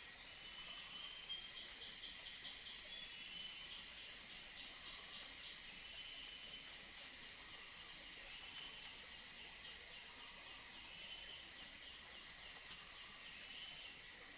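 Tropical forest insects: a steady high-pitched drone, with rapid trilling chirps coming and going over it and faint lower calls now and then.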